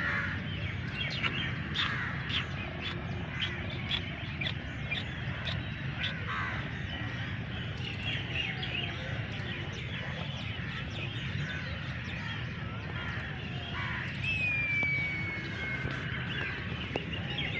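Birds chirping and calling over steady background noise, with one clear whistled note, falling slightly, about fourteen seconds in.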